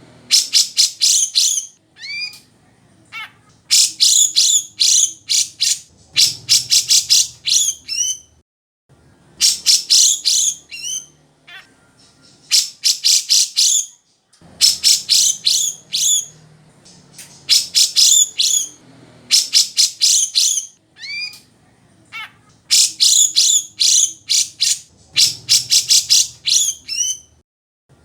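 Grey-cheeked bulbul (cucak jenggot) singing loudly in repeated phrases of rapid, high chattering notes, each lasting a second or two. Short upward-sliding whistles fall between the phrases, with brief pauses in between.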